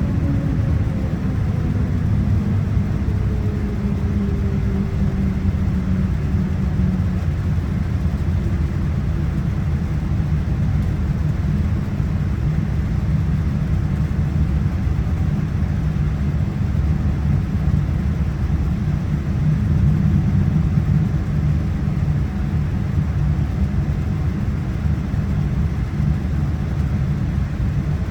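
Steady low rumble of a Boeing 787-9's Rolls-Royce Trent 1000 engines heard inside the passenger cabin, with a faint whine sliding down in pitch over the first few seconds.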